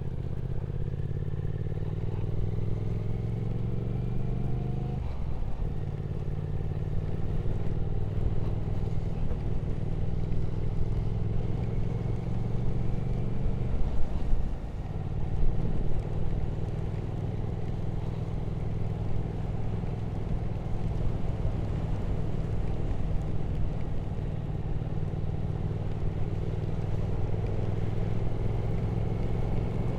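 Triumph Speed Twin 1200's parallel-twin engine heard from the saddle while riding, its pitch climbing slowly, with a gear change about five seconds in and another around fourteen seconds. Wind and road noise run underneath.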